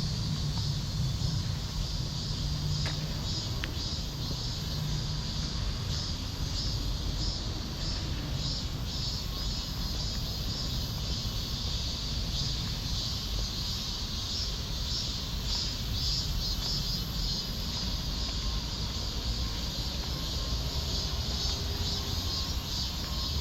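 Insects chirping in a steady, regularly pulsing chorus, over a low steady rumble of background noise.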